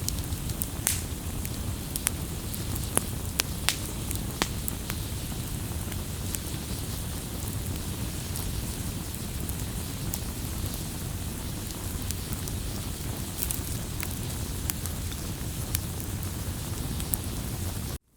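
Wood campfire crackling, with scattered sharp pops over a steady low rush of burning. The sound cuts out abruptly right at the end.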